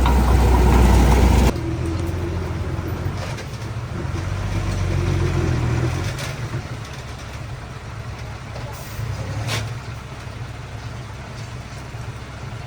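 Heavy machinery diesel engine running. It is loud for about the first second and a half, then drops abruptly to a quieter engine sound that rises and falls, with a sharp click about nine and a half seconds in.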